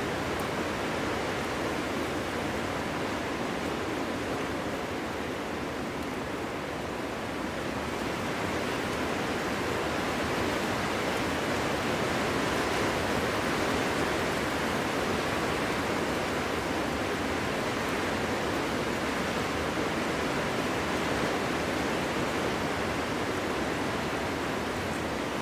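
Wind blowing steadily, a continuous rushing hiss that eases slightly and then swells again about a third of the way in.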